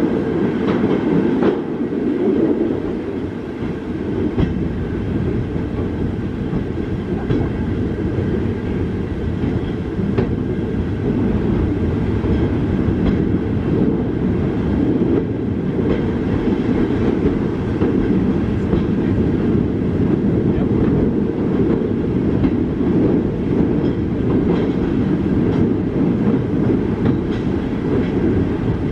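Train running along the track: a steady, unbroken rumble of wheels on rail with occasional faint clicks.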